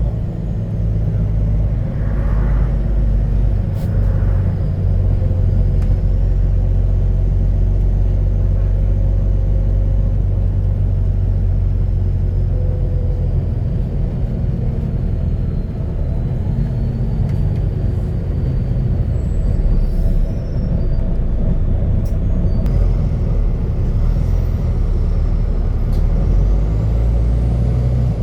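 Volvo B9TL double-decker bus's straight-six diesel running under way, heard from inside the bus as a loud, steady low exhaust rumble from a burst exhaust. A faint high whine rises and falls over it in the second half.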